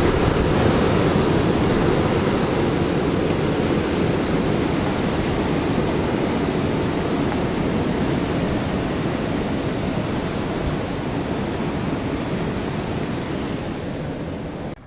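Hurricane wind blowing hard and steadily, a loud even rushing noise with no letup that eases slightly toward the end.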